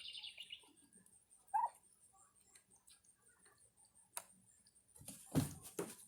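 A bird's high, pulsing trill fades out in the first half-second, and a single short call follows about a second later. Scattered taps and clicks come after it, and near the end a quick cluster of louder knocks.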